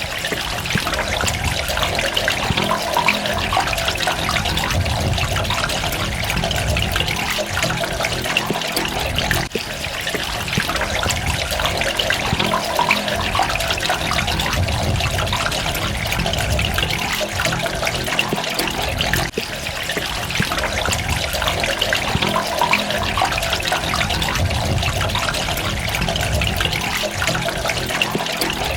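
Steady running, trickling water with dense droplet splashes, dipping briefly about every ten seconds.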